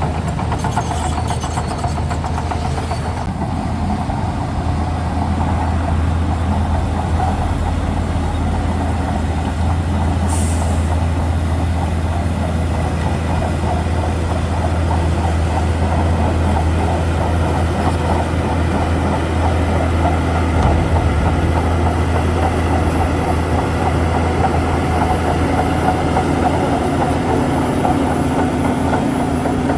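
Shantui DH17C2 bulldozer's diesel engine running with a steady low drone, with a brief high hiss about ten seconds in.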